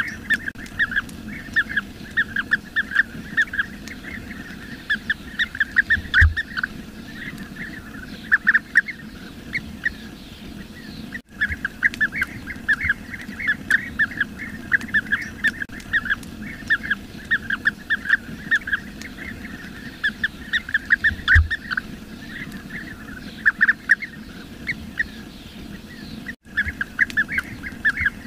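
Bee-eaters calling: a dense run of short, rapid, overlapping calls, many birds chattering together, broken by two very brief dropouts.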